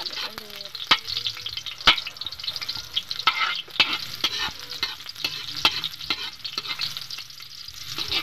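Sliced onion and browned garlic sizzling in hot oil in a metal wok, stirred with a metal spoon that clicks and scrapes against the pan now and then, loudest about one and two seconds in.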